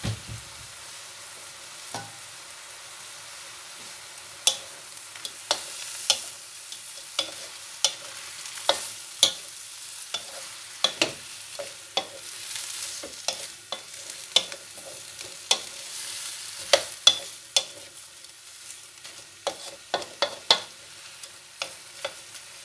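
Whole shrimp frying with a steady sizzle in a metal wok, stirred with a wooden spatula that knocks sharply against the wok's side, repeatedly from about four seconds in.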